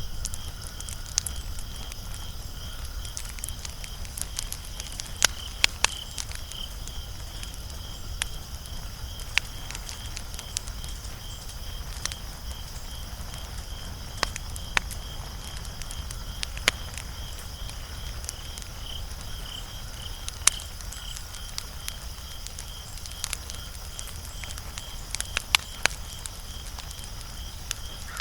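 Wood fire crackling, with sharp, irregular pops and snaps over a low rumble. A steady, evenly pulsing high-pitched note runs in the background.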